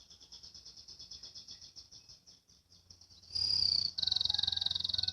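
Domestic canary singing fast, high-pitched rolling trills of the 'ngriwik' type. The trills are faint at first, then about three seconds in there is a louder burst with a sharp high note, followed by a loud, rapid trill.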